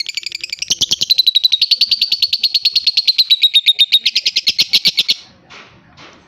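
Young lovebird chattering in a long, loud, very rapid trill of high notes, about a dozen or more a second. It breaks off about five seconds in, followed by a few softer separate chirps.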